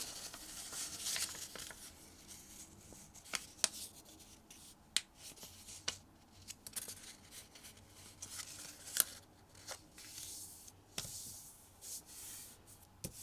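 Origami paper being folded and creased by hand: soft rubbing and rustling as the fold is pressed flat, with a few sharp crinkling clicks of the paper.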